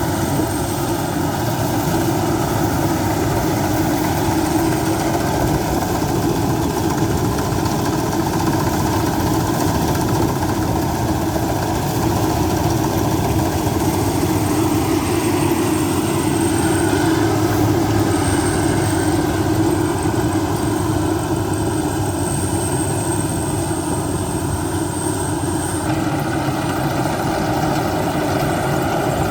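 Maxxi Bimo rice combine harvester running steadily while harvesting, its engine and machinery making one continuous mechanical sound with a faint high whine above it.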